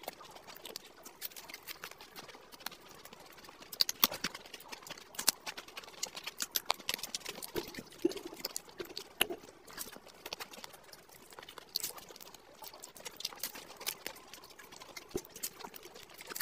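Close-miked chewing of crisp fried samosas: irregular crunches and small clicks, with a few louder cracks about four seconds in.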